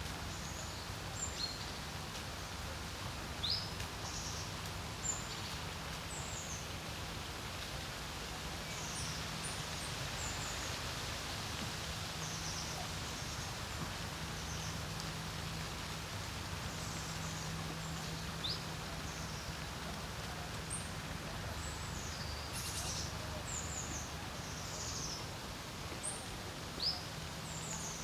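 Small birds giving short, high chirps and calls scattered all through, over a steady hiss of wind by the lake. A faint, steady low hum runs underneath.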